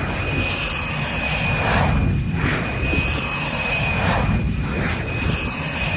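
Jet engine running at high power while being throttled up: a loud steady rush with a high whine held over it, the level swelling and easing about every two seconds.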